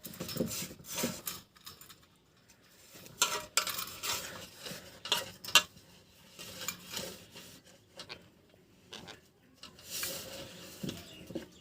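Irregular clinks, rattles and scrapes of small hard objects being handled, coming in short clusters with quieter gaps between.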